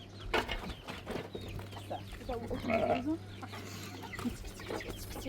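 Chickens clucking in short, scattered calls over a faint steady hum.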